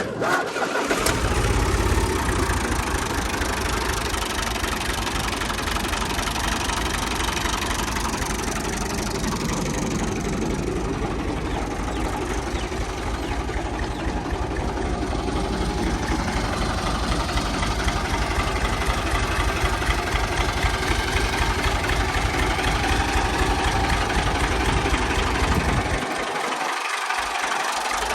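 Fiat 480 tractor's three-cylinder diesel engine starting and then running steadily at idle. Its low rumble briefly drops away near the end.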